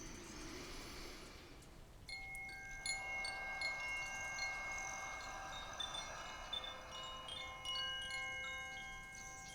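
Wind chimes tinkling: many light strikes whose ringing tones overlap and hang on.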